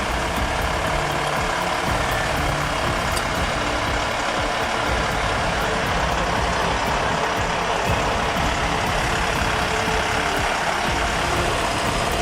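Heavy haul truck engine running steadily under load, with a constant rumble and road noise.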